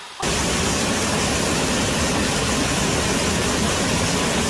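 Steady roar of a waterfall pouring close by, cutting in abruptly about a quarter second in.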